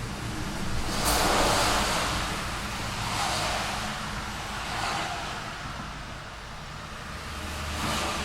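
Road traffic: cars passing one after another, each a swell of tyre and engine noise, the loudest about a second in and others near three and five seconds and just before the end, over a steady low traffic rumble.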